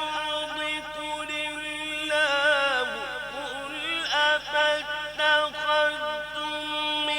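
A male Quran reciter chanting in the melodic mujawwad style, holding a long sustained note that turns into rapid rising and falling vocal ornaments partway through, then settles back onto a held tone.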